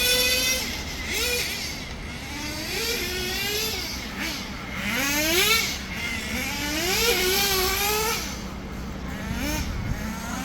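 Small nitro engine of an RC touring car revving up and easing off again and again, its high whine climbing in pitch about four times.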